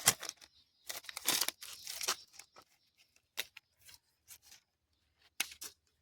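Irregular crackling and crunching: a dense run of noisy crackles over the first two seconds, then short scattered crackles, with a last cluster near the end.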